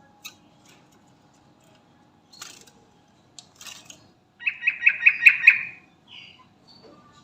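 Yellow-vented bulbul (trucukan) calling: a few short, sharp chirps, then a quick run of about six bubbly notes a little past the middle, the loudest part.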